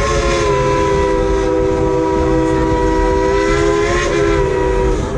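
Steam locomotive's chime whistle sounding one long blast of several tones together. Near the end the pitch sags and the blast cuts off. Under it is the low rumble of the train.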